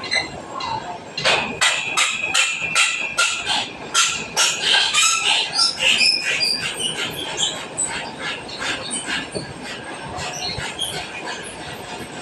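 A quick run of metallic clanks and knocks, two or three a second, with a ringing tone. It is busiest from about one to six seconds in and thins out after.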